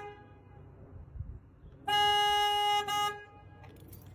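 Car horn sounding: the tail of a toot at the very start, then one held honk of about a second near the middle, set off by a dog pressing on the steering wheel.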